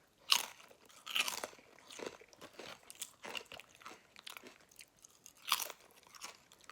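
A person chewing crunchy potato chips: irregular crunches, loudest just after the start, about a second in, and again about five and a half seconds in.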